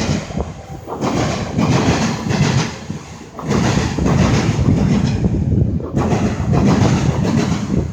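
Freight train passing close by, a loud rumbling noise that dips briefly a few times.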